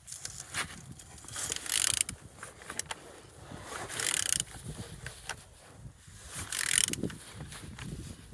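Renault K9K diesel engine being turned over by hand, with clicks and three swelling rushes of hiss, roughly every two and a half seconds. It turns freely, with no sign of seizing.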